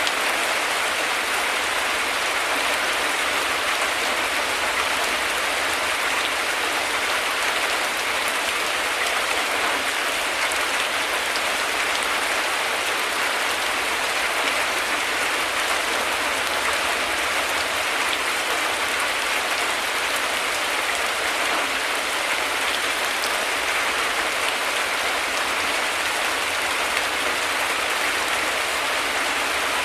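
Heavy rain falling steadily, a dense, even hiss of drops with no thunder heard.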